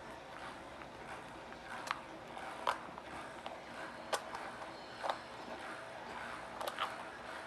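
Small plastic toy pieces being handled: scattered sharp clicks and taps, about six of them, two close together near the end, over a faint steady background.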